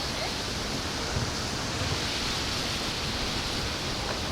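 Wind buffeting the microphone: a steady rushing hiss over an uneven low rumble that swells in gusts, strongest about a second in and again near two seconds.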